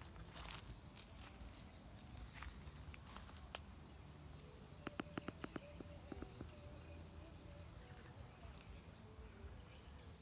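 Faint outdoor ambience with an insect's short, high chirp repeating at an even pace, a little under two a second. About five seconds in there is a quick run of clicks, and a few soft rustles come early on.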